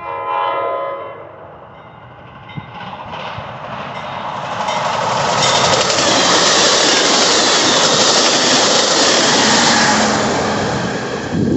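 MARC commuter train sounding a short horn blast with several tones as it approaches. Its passenger cars then pass close by at speed, and the rush of steel wheels on rail builds to a loud, steady roar.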